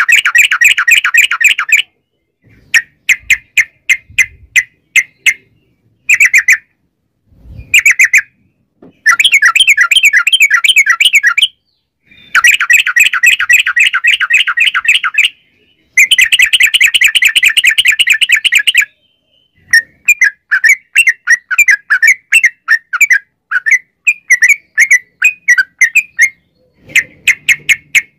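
Yellow-vented bulbul (trucukan) singing long rapid-fire chattering runs, many quick bubbling notes in a row, in bouts of one to four seconds with short pauses between.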